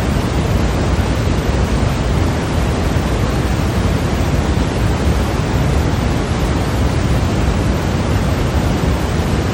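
Steady white noise played as a sleep sound: an even, unchanging hiss, heavier in the lows.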